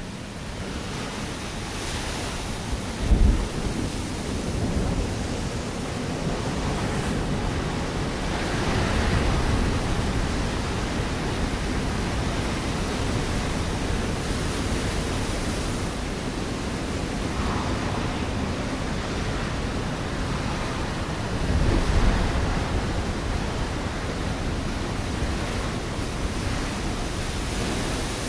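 Ocean waves breaking on a rocky shore: a continuous wash of surf that swells and ebbs, with two louder low thumps, one a few seconds in and another about two-thirds of the way through.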